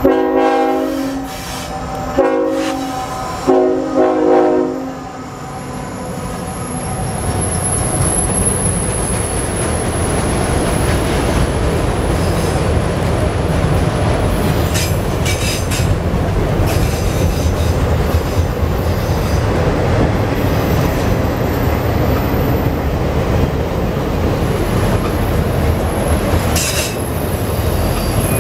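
A freight train's diesel locomotive air horn sounds three blasts: long, short, long. Then the train passes close by: a steady loud rumble of wheels on rail as a long string of autorack cars rolls past, with a high wheel squeal at times and a few sharp clacks of wheels over rail joints.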